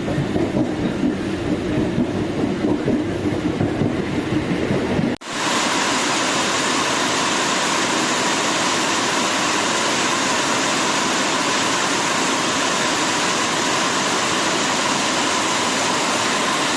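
A commuter train running, heard in two edited clips: first about five seconds of uneven low rumbling, then after a sudden cut a steady even rushing noise with a faint steady tone in it.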